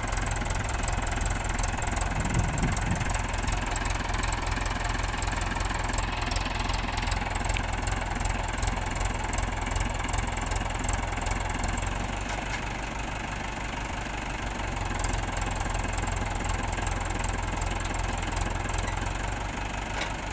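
Mahindra 415 DI tractor's diesel engine running with a steady, rapid knocking beat. It eases off a little about twelve seconds in and picks up again a few seconds later.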